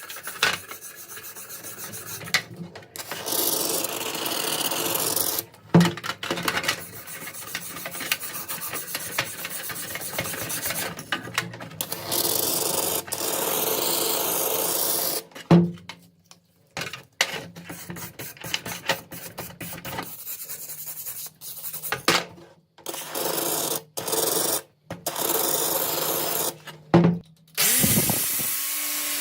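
Abrasive rasping and rubbing on rusty gun metal during rust removal, in short stretches that start and stop abruptly at several points.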